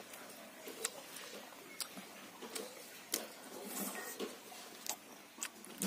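A person eating rice and fish by hand, close to the microphone: soft chewing with scattered sharp mouth clicks and smacks, about one a second.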